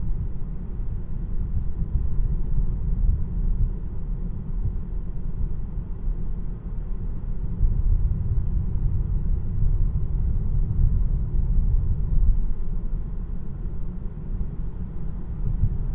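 Steady low road and tyre rumble heard inside the cabin of a 2026 Tesla Model 3 electric car while it is driven, with no engine note.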